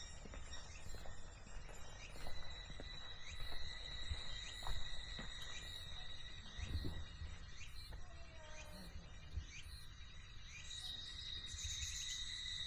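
Insects droning in a steady, high, unbroken tone, with scattered low thumps underneath.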